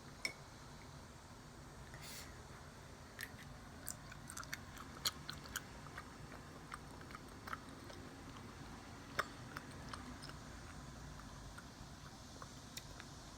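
A child eating quietly: soft chewing with many scattered small sharp clicks and taps.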